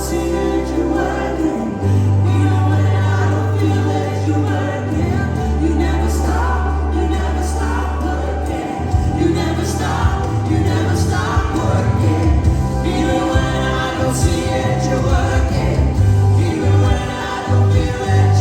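Gospel worship song: a choir singing over a band, with a deep bass line changing notes every few seconds and cymbal strokes.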